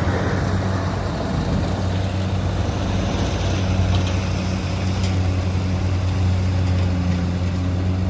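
Kubota DC70 combine harvester's diesel engine running steadily with a constant low drone.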